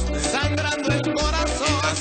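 Salsa music: a band playing a descarga, with a steady run of bass notes under the melody.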